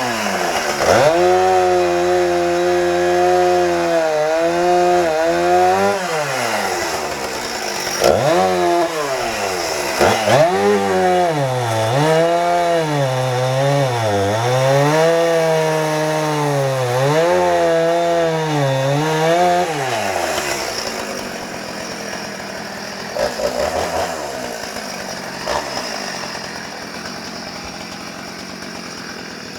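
Husqvarna two-stroke chainsaw cutting wood: its engine pitch repeatedly sags and recovers as the chain bites into the log. About two-thirds of the way through the cutting stops and the saw falls back to a quieter running.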